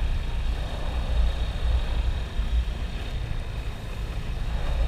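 Motorcycle riding at speed, its engine running under heavy wind buffeting on the microphone, a low fluctuating rumble.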